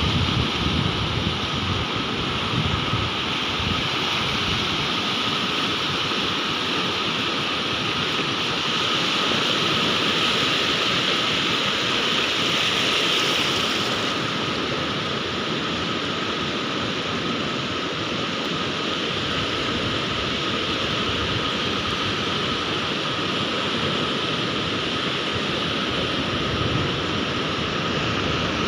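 Sea waves breaking and washing as a steady, continuous rush of surf that swells a little about halfway through.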